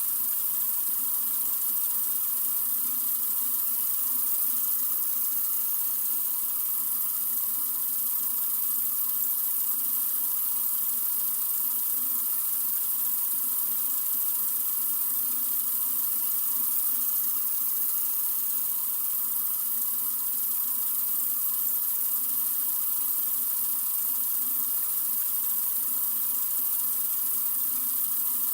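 Tap water running steadily from a sink faucet: an even, unbroken rush with no changes in level.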